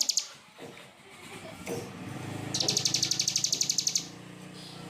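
Songbird giving a rapid trill of sharp high notes, about a dozen a second, for about a second and a half starting a little past halfway.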